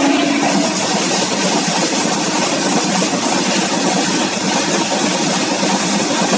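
Loaded freight train of open-top steel wagons running past close by: a steady, loud rumble and rattle of wheels on rail and wagon bodies. A train horn's long blast ends about half a second in.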